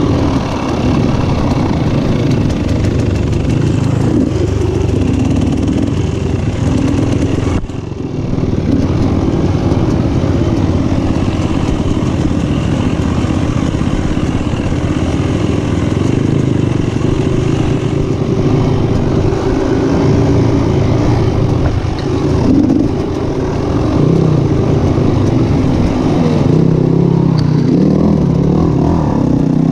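Motocross motorcycle engines running and revving, loud and continuous, with a brief drop about eight seconds in.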